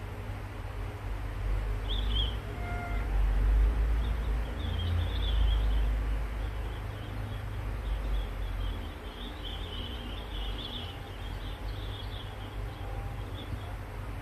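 Outdoor ambience: a low, unsteady rumble with small birds chirping high and bright in scattered bursts, busiest in the second half.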